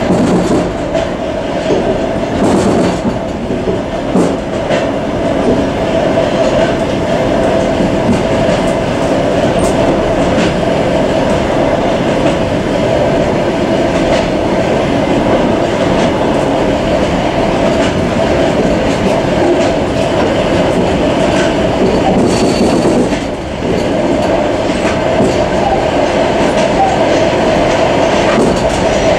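Suburban passenger train running at speed, heard from inside a car's end vestibule: steady rolling noise of wheels on rails with a steady hum and scattered clicks of the wheels over rail joints. The noise dips briefly about three-quarters of the way through.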